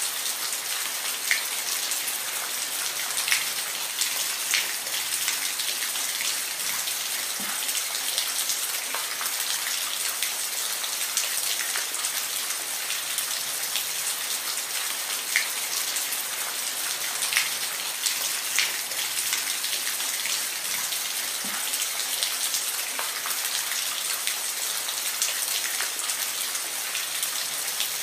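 Steady rainfall: a dense hiss of rain with individual drops pattering close by, a few louder drips standing out every second or two.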